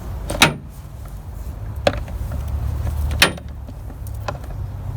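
Two sharp clicks of a hand tool on the bolts holding the engine's top cover, about three seconds apart, with a few fainter ticks between, over a steady low rumble.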